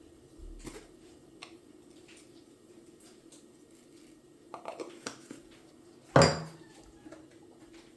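Dishes and cutlery being handled: a few light clicks and clinks, a short clatter about four and a half seconds in, and one loud clank just after six seconds, over a low steady hum.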